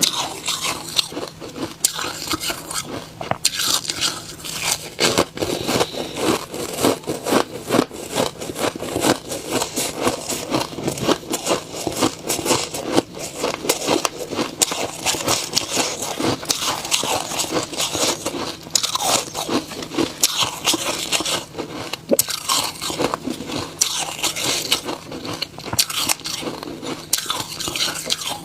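Close-up biting and chewing of frozen snow ice: a continuous run of crisp crunches and crackles.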